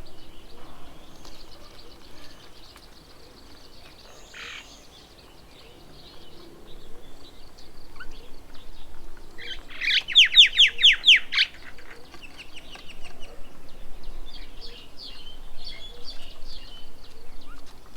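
Wild birds chirping and calling, with one loud rapid run of about eight sharp, downward-sweeping notes about ten seconds in.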